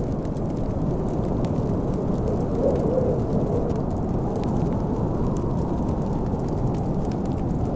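Snowstorm wind making a steady, deep rumble, with the sharp pops and crackles of a wood fire scattered over it.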